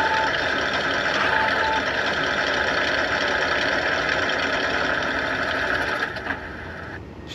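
RC warbird onboard sound system playing a simulated radial engine idling steadily, then winding down and stopping about six to seven seconds in: the engine shutdown sequence.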